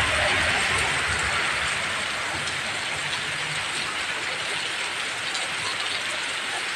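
Heavy rain falling steadily, a dense even hiss of downpour. A low rumble under it fades out about four seconds in.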